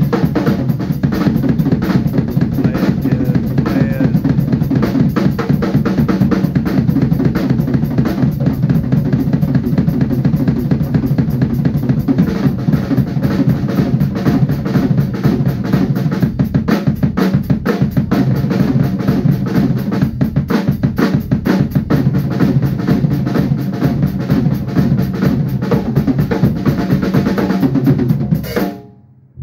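Drum kit played in a dense, driving beat with bass drum and snare, as part of live music. The sound drops away abruptly about a second before the end.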